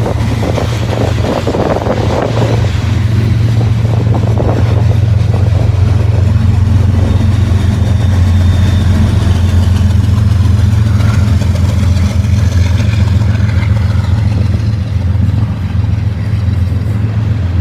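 Long CSX mixed freight train rolling past with a steady, loud low rumble from its diesel power, mixed with wind buffeting the microphone.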